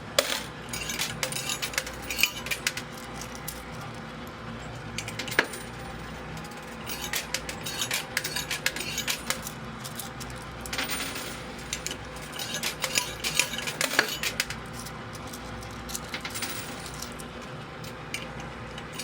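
Quarters dropping into a coin pusher machine and clinking against the metal playfield and other coins, in several bursts of rapid metallic clinks, over a steady hum.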